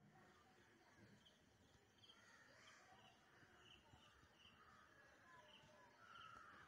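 Near silence with a faint bird chirping: short, high chirps repeating about twice a second.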